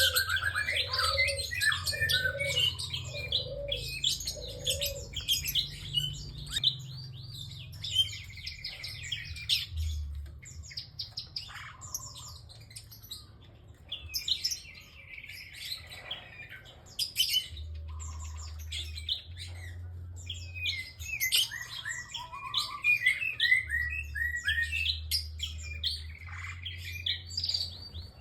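Prinia (prenjak) calling vigorously and almost without pause: rapid runs of sharp, high chirps and short trills.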